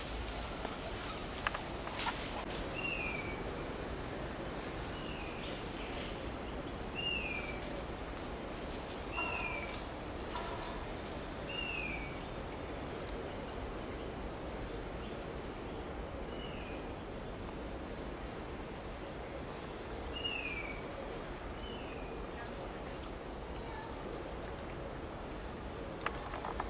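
A bird repeats a short, falling whistled note every few seconds, about eight times in all, over a steady, high-pitched insect drone.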